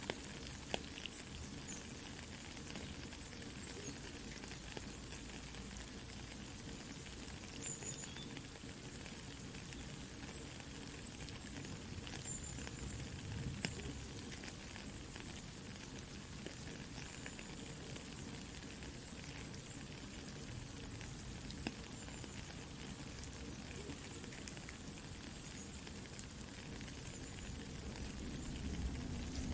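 Soft, steady rain mixed with a crackling campfire: an even hiss with scattered small pops and crackles.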